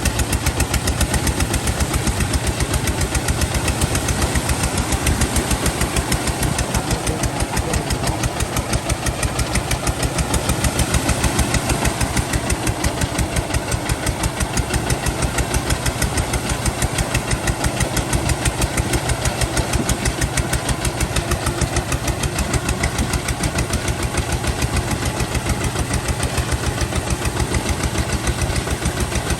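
Kubota ZT155 single-cylinder diesel engine running steadily, its exhaust beating in an even, rapid chug.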